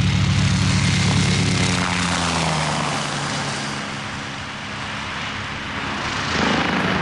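Helicopter flying by, its rotor beating in a fast, even pulse over a steady engine tone. About two seconds in the tone drops in pitch and fades as it moves off, then grows louder again near the end.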